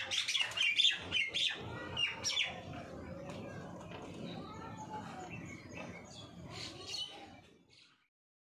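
Small birds chirping, loudest and busiest in the first two or three seconds, over a faint background. The sound cuts off about a second before the end.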